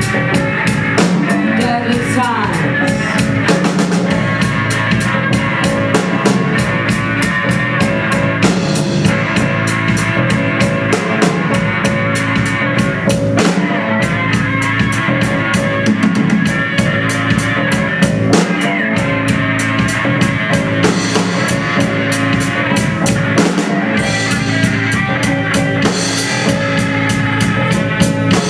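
Live rock-style band music: a drum kit keeps a fast, steady beat under sustained pitched instruments, with a few sliding swoops in pitch.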